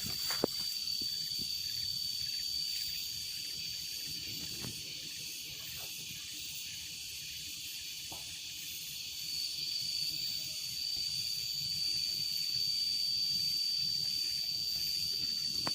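A steady chorus of insects: a constant high-pitched whine with a hiss above it. A few faint snaps sound in the first few seconds.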